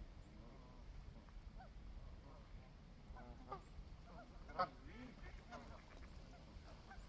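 Sandhill cranes calling: a scatter of faint, short honking calls, bunched around the middle, with one louder call just past halfway.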